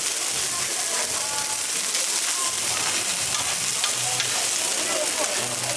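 Beef burger patties and diced onions sizzling steadily on a hot flat-top griddle.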